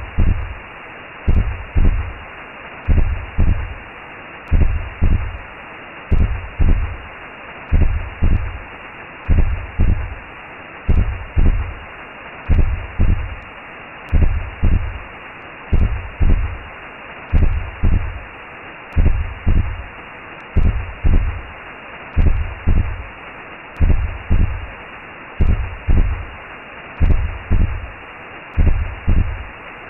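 Recreated womb sound: a slow heartbeat, each beat a low double thump about every second and a half, over a steady whooshing hiss.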